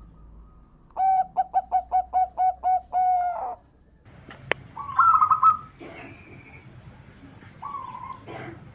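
Zebra dove (perkutut) cooing: a run of about ten quick notes ending in a longer held note, starting about a second in. A sharp click follows, then a louder short trilled call and fainter higher bird calls.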